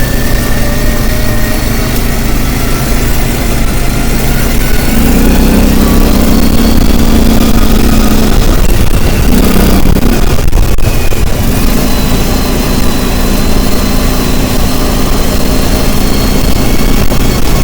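Motor vehicle engine running loudly under way, with its note shifting as it pulls, over steady road and wind noise.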